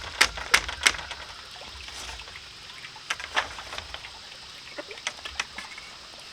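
Blade chopping strokes: three sharp chops in the first second, then lighter, scattered knocks a few seconds later.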